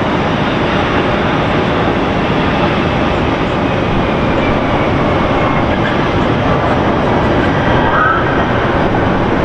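Jet airliner engine noise: a loud, steady rush with faint tones sliding slowly downward.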